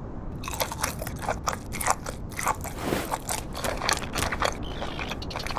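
Cartoon chewing sound effect: a rapid, irregular run of crisp crunching bites.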